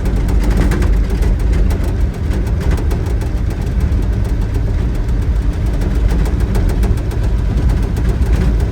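Old pickup truck being driven, heard from inside the cab: a steady, loud engine and road rumble with many small rattles and clicks throughout.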